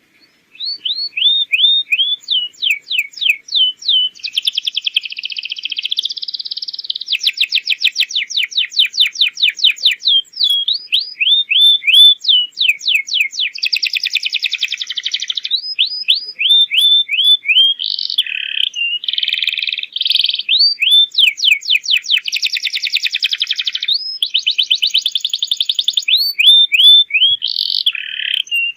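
Domestic canary singing a long, unbroken song: runs of quickly repeated sweeping whistled notes alternate with fast rattling trills and buzzy rolls. It is the full, continuous song of a canary in top singing form, used as a tutor song for young canaries.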